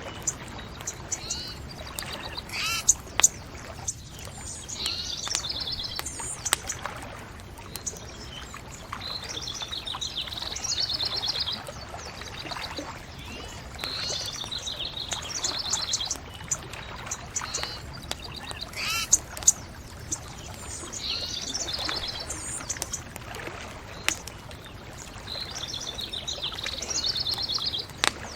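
Songbirds singing repeated short trilled phrases every few seconds, with sharp pops from a crackling bonfire over a steady low hiss.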